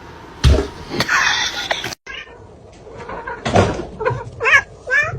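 A cat meowing in several short calls in the second half, after a loud thump about half a second in.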